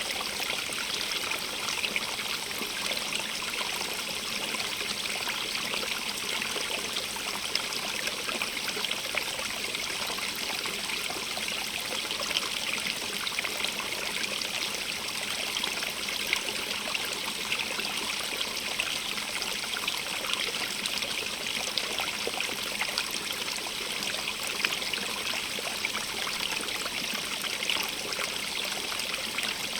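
Stream of running water splashing and trickling over rocks, a steady hiss with small splashes and no change.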